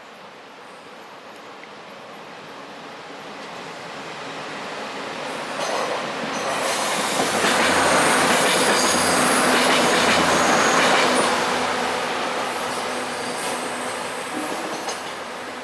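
A train passing by on the rails: its noise builds up, is loudest for several seconds in the middle with a thin high wheel squeal, then dies away as it goes past.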